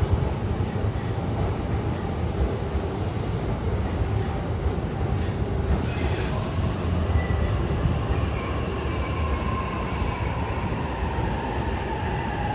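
E655 series electric train standing at a station platform, with the steady rumble and hum of its onboard equipment. Faint high tones come in during the second half.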